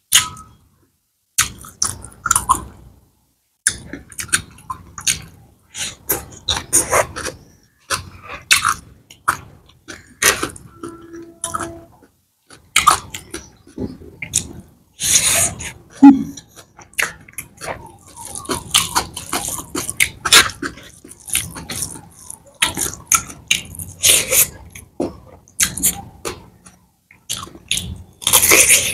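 Close-up chewing and wet mouth sounds of a person eating a soft curry meal by hand: irregular smacks and clicks of the lips and tongue. Near the end there is a crisp bite into a slice of raw cucumber.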